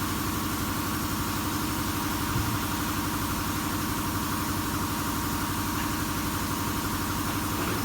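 An engine idling steadily, with an even, fine pulse and a constant hum.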